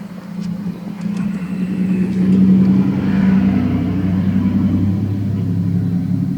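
An engine running close by, getting louder about two seconds in and then holding steady at a low, even pitch.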